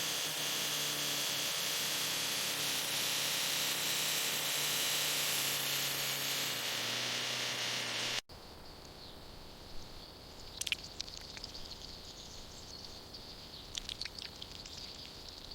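A steady hiss with a faint low hum runs for about eight seconds, then cuts off abruptly. Quiet outdoor background follows, with scattered short high bird chirps.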